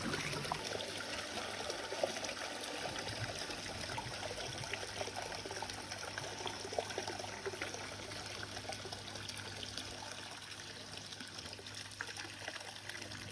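Water from a pool return jet running into a vacuum hose and trickling steadily, filling the hose to prime it before vacuuming. A low steady hum runs underneath.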